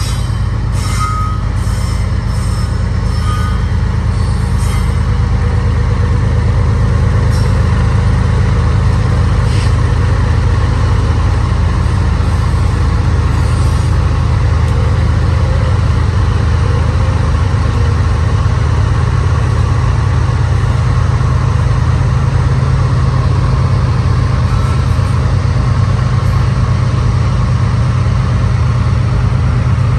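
Eastbound auto-rack freight train's diesel locomotives running with a steady low drone, growing slightly louder about six seconds in, with a few brief high-pitched wheel squeals in the first few seconds.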